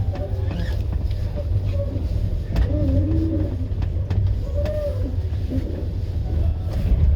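Passenger train running, heard inside the carriage: a steady low rumble with scattered sharp clicks and knocks.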